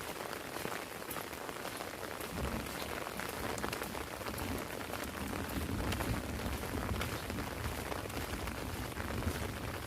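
Heavy rain falling on an umbrella, a steady hiss dotted with many sharp drop ticks. A low rumble joins in about two and a half seconds in and keeps on.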